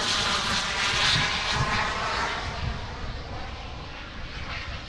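Radio-controlled model airplane flying past, its engine noise swelling to a peak about a second in and then slowly fading as it moves away.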